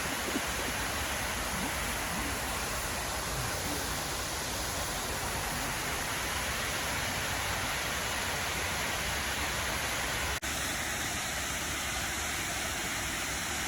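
Waterfall's steady rushing noise of falling water. About ten seconds in, the sound drops out for an instant and resumes with a slightly different tone.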